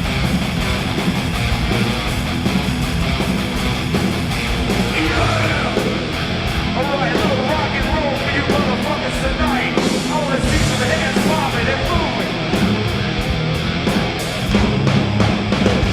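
A rock/metal band playing live with electric guitars, bass and drums, loud and steady throughout, with the cymbals keeping an even beat. About five seconds in, a wavering melodic line comes in over the band.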